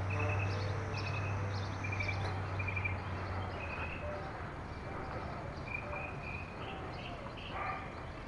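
Birds chirping in short repeated high trills, over a low steady hum that fades away about four seconds in.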